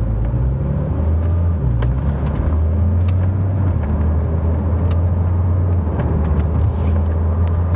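2014 Porsche 981 Boxster's 2.7-litre flat-six pulling away and running at moderate revs, a deep steady drone heard from inside the cabin, its pitch rising briefly and dropping back about a second and a half in.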